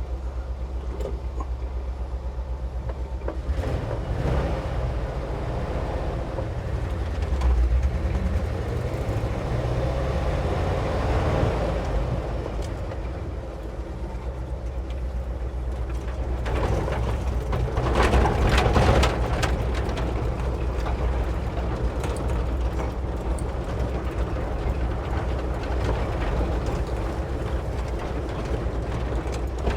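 Ford F-600 medium-duty truck driving, its engine and running gear a steady low rumble heard from inside the cab, getting louder about 4 seconds in and again briefly around 18 seconds in.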